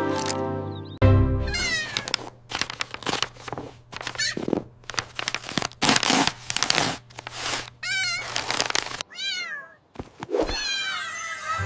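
Cats meowing repeatedly over background music, a string of short calls that rise and fall in pitch.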